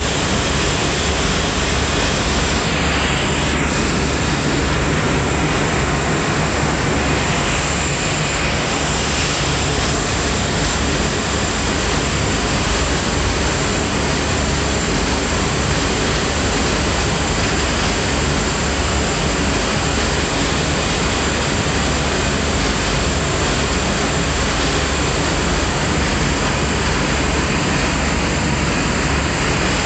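A ship's engines running steadily, a loud constant drone with a low hum and a broad rushing noise over it, heard from inside the rear of the vessel.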